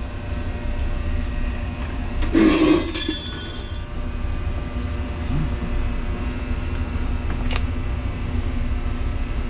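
Steady low mechanical hum of background machinery, with a brief clatter about two and a half seconds in that leaves a short metallic ring, and a single click near the end.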